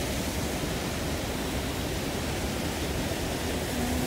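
Steady rushing outdoor noise with a low rumble and no distinct events.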